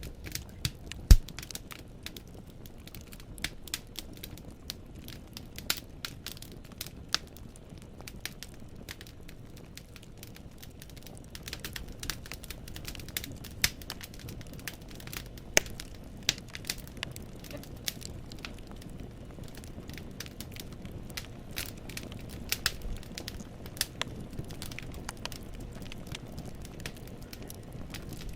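Firewood burning in a fireplace, crackling and popping over a low, steady hiss of the flames. There is one loud pop about a second in, and the crackles come thicker from a little over a third of the way through.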